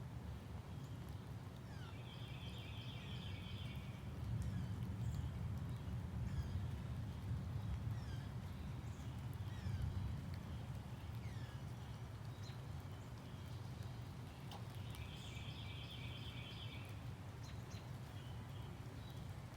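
Birds calling outdoors: scattered short chirps, and twice a longer patterned call of about a second and a half, the first about two seconds in and the second near fifteen seconds in. Under them runs a steady low rumble.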